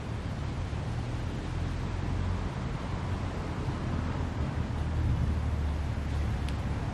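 Wood fire burning steadily with a low rumble, and a single sharp crackle near the end.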